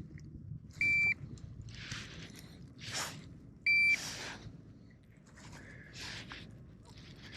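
Two short electronic beeps about three seconds apart, typical of a digital fish scale powering on and then locking in a bass's weight, with brief handling rustles between them.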